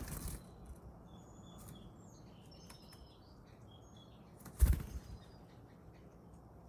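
A bird's wings flapping in a sudden loud flutter about four and a half seconds in, with a softer flutter at the very start. Faint, short, high bird chirps sound between them.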